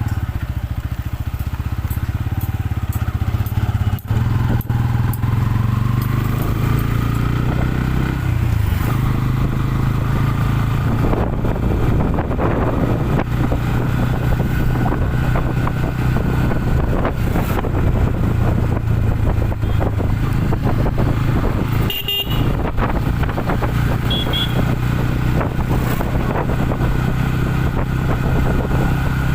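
Motorcycle engine running on the road, with steady road and wind noise. Its note rises and then drops about eight seconds in. A couple of short horn beeps sound near the end.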